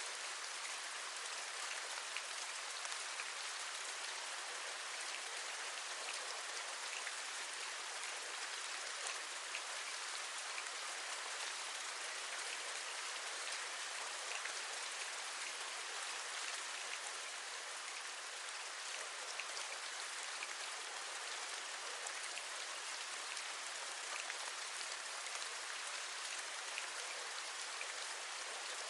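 Steady rain, with a dense sprinkle of small raindrop taps over an even hiss.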